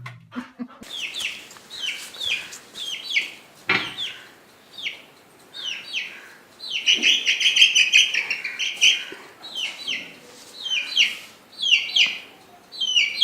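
A bird calling over and over: short falling calls at about two a second, with one longer call held for about two seconds midway.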